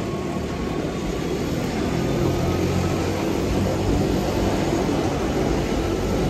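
Wengernalpbahn electric rack-railway train passing close by the platform, a steady running noise that gets louder about two seconds in.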